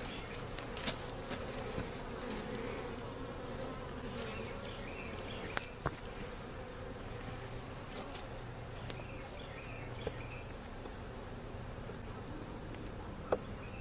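Honeybees buzzing around an opened hive: a steady hum of many bees, with a few light clicks.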